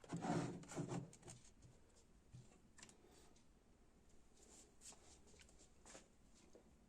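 A short voice in the first second, then near silence with a few faint scattered clicks. No music plays.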